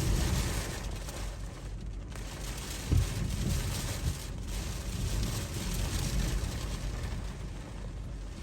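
Typhoon wind gusting against the microphone: a heavy low rumble that swells and falls, with a steady hiss over it and one sharp buffet about three seconds in.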